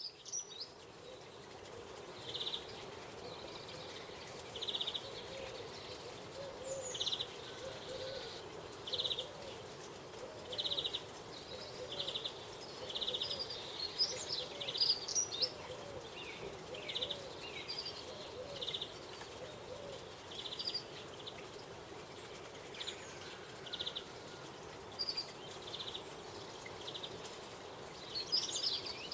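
Garden birds calling: a short, rattling note repeated about once every second or so, with scattered higher chirps and whistles over a steady low background hum.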